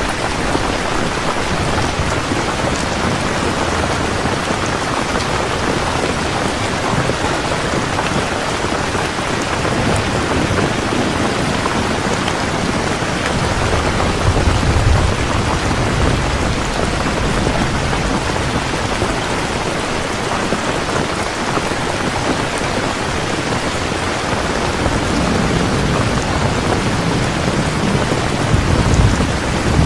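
Heavy rain falling steadily, with low rolls of thunder rumbling in the background, swelling about halfway through and again near the end.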